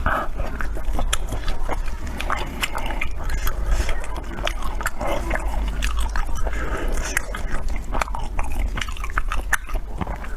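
A person biting and chewing food close to the microphone, with many sharp wet mouth clicks and smacks.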